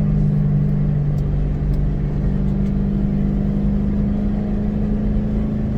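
2006 Ford Mustang GT's 4.6-litre V8 cruising at a steady speed, heard from inside the cabin as a steady low engine and exhaust drone over road rumble.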